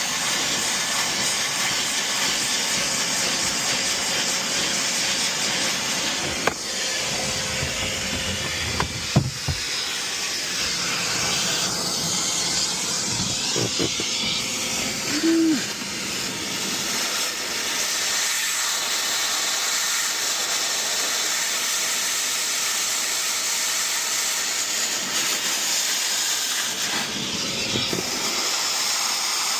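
A steady, even hiss of rushing air, broken by a few light knocks and a short squeak about halfway through.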